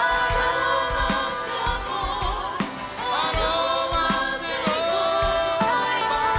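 Christian worship music: voices holding long, wavering notes over keyboard and a steady drum beat.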